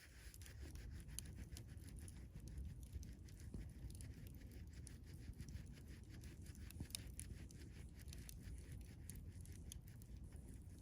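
Wood campfire burning with a low, steady rush and many faint, irregular crackles and small pops.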